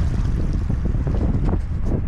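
Wind rumbling steadily on the camera microphone while riding a bicycle.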